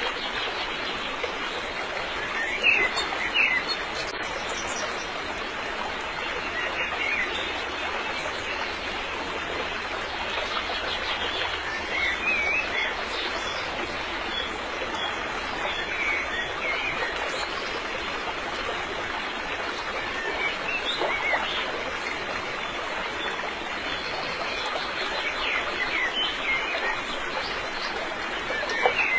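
Steady rush of flowing water, with short bird chirps now and then.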